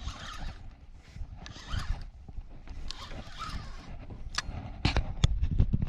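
Fishing reel being cranked to retrieve a cast lure, a rasping whirr in three short bursts about a second and a half apart, followed by a few sharp clicks, over a low steady rumble of wind on the microphone.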